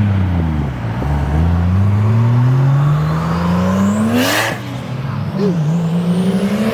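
A performance car engine accelerating hard through the gears. The revs climb steadily, drop at an upshift with a short noisy crack about four seconds in, then climb again.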